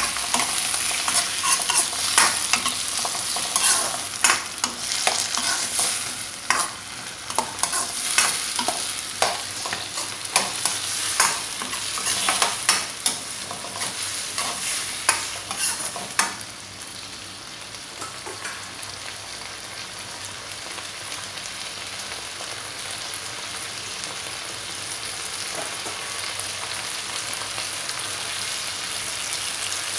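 Chopped tomatoes sizzling in hot oil in a wok, frying until soft. For the first half a metal spatula scrapes and clacks against the wok as they are stirred, then the stirring stops about 16 seconds in and only the steady sizzle goes on.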